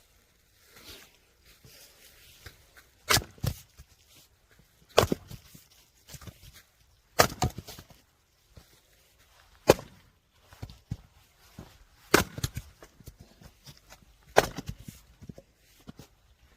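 Firewood being split: six sharp cracking strikes, about one every two seconds, some followed by a lighter second knock.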